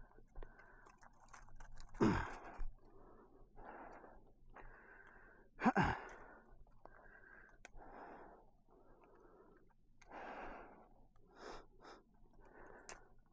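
A man breathing hard, in and out about once a second, with two louder sighing breaths that fall in pitch about two and six seconds in: he is winded and worn out.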